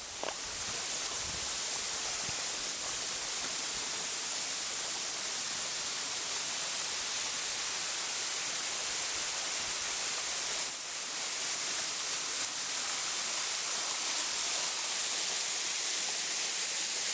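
Waterfall: falling water rushing as a steady, dense hiss, dipping briefly near the middle.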